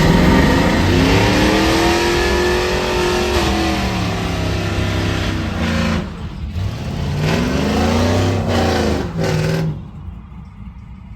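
A vehicle engine revved twice, its pitch climbing and falling back each time, with a couple of short blips before the sound drops away abruptly near the end.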